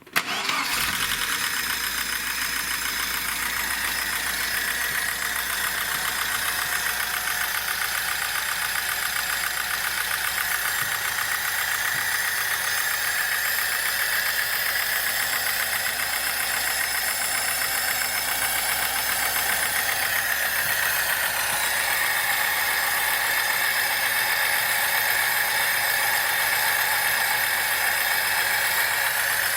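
VAZ-21011 1.3-litre four-cylinder petrol engine catching just as it starts and then idling steadily in neutral, with a knock that is placed at the top of the engine, in the valve train (timing mechanism).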